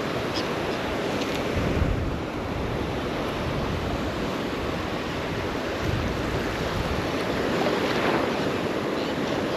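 Gulf surf washing and breaking, with wind buffeting the microphone; the waves swell louder about two seconds in and again near the end.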